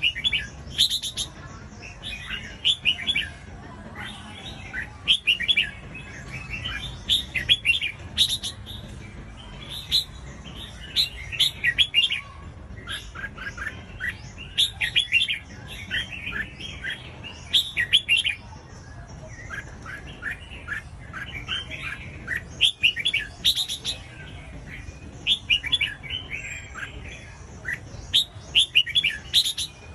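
Red-whiskered bulbuls singing: quick bursts of short chirped notes, phrase after phrase every second or two, over a faint low hum.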